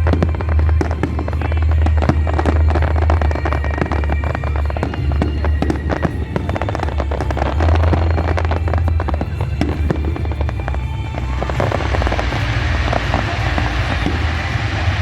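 Fireworks display going off: a dense run of quick bangs and crackles over a steady low rumble, with music playing underneath. About eleven seconds in, the sound thickens into a continuous crackling hiss.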